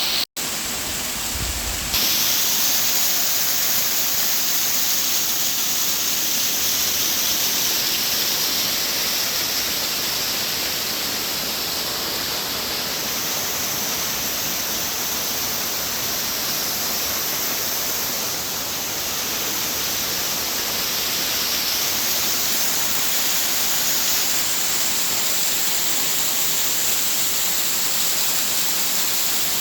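Waterfall: a steady rush of falling water, close and loud, with a brief dropout a fraction of a second in and a brighter, fuller rush from about two seconds in.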